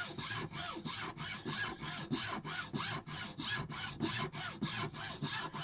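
Hand hacksaw cutting through a wooden dowel, in a steady back-and-forth rhythm of about four strokes a second.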